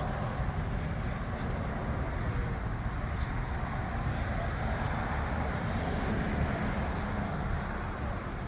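Steady low rumble of motor vehicles, with no distinct engine note or event standing out.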